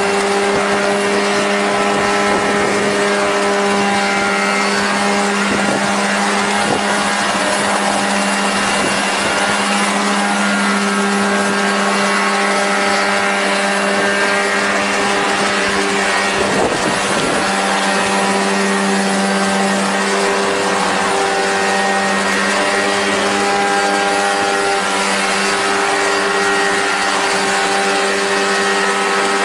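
Engine and propeller of a homemade light aircraft running at a steady speed, with a brief wavering in pitch about halfway through.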